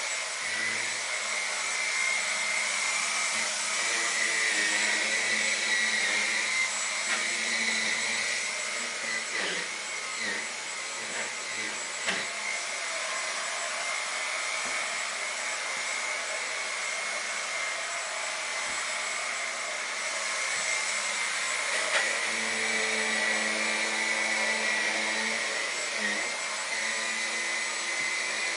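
Dyson V10 Animal cordless stick vacuum running steadily with a high whine as it cleans a sofa, with a few short knocks as the head is moved over the cushions.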